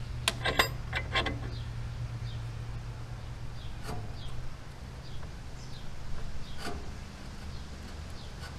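Several sharp knocks in the first second and a half, then single knocks about four and about six and a half seconds in, over a steady low hum, with faint short high chirps.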